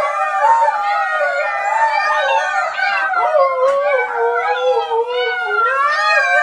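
Dogs howling together, several voices overlapping and wavering up and down in pitch without a break.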